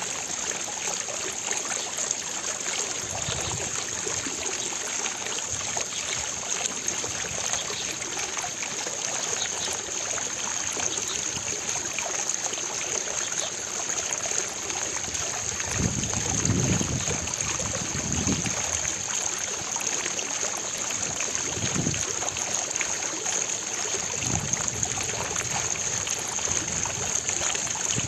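Fountain water splashing and falling in a steady rush, with a few brief low rumbles in the middle and toward the end.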